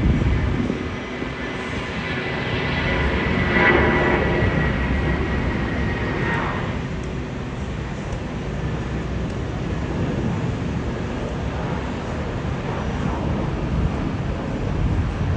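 Jet airliner passing close by: a loud engine rumble with a whine that builds to a peak about four seconds in, then drops in pitch as the plane moves away.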